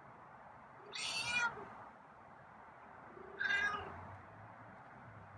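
A feral domestic cat meowing twice, a little over two seconds apart, each meow short, begging for its kibble at the door.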